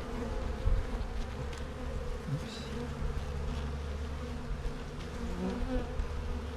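Steady droning hum of many honeybees buzzing over an opened beehive.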